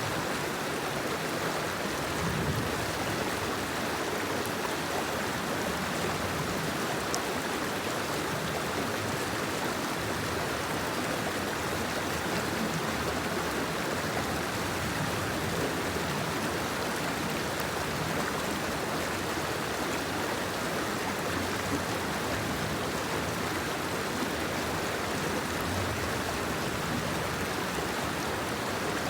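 Rain falling steadily, an even, unbroken hiss of water with no pauses.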